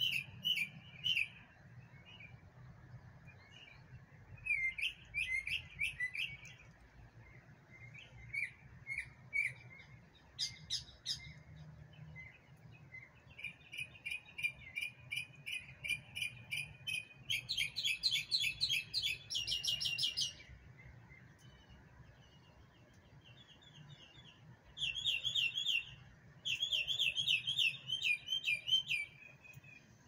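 Songbird singing: phrases of quick, repeated high chirps separated by short pauses, with a faster, denser run of notes about two-thirds of the way through and a brief lull before two final phrases.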